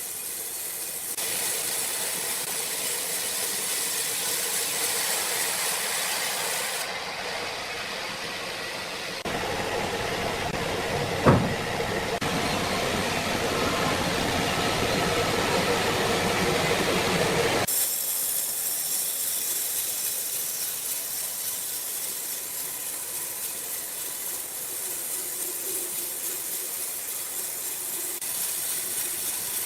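Sawmill machinery running with a steady hissing noise that changes character abruptly several times, with a single sharp knock partway through.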